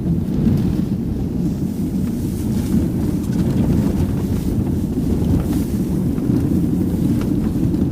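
Steady low rumble of a vehicle running, with wind buffeting the microphone.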